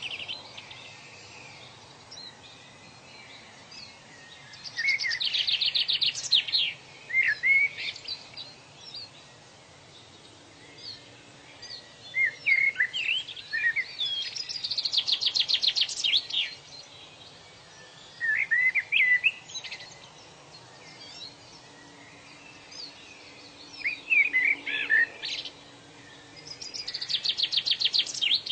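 Birds singing. Bouts of short warbling whistles and a fast rapid trill come round about every twelve seconds, over a faint steady hiss.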